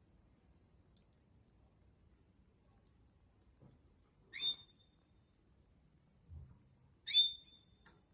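Canary giving two short call notes about two and a half seconds apart, each a quick upward sweep into a brief held whistle. Before them come a few faint, sharp clicks of its beak working a dried seed pod.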